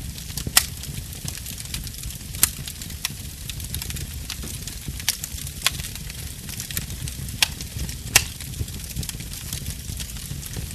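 Fireplace fire crackling: a constant low rumble and hiss broken by frequent small crackles and about six sharp, louder pops, the loudest just after eight seconds in.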